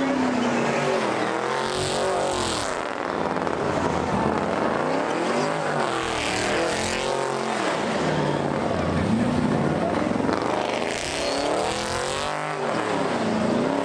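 Car engine revved hard three times, its pitch climbing and falling with each rev.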